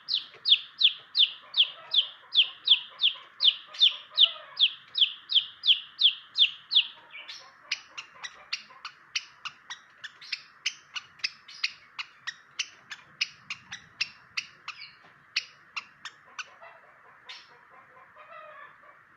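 Long-tailed shrike (cendet) calling. It gives a steady series of harsh, downward-slurred notes at about three a second for the first seven seconds, then switches to a run of short, sharp chips that fade out about three seconds before the end, over a steady hiss.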